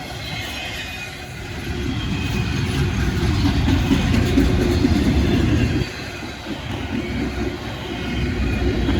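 Freight train rolling past, a steady rumble of wheels and cars on the rails that swells and then drops off suddenly about six seconds in.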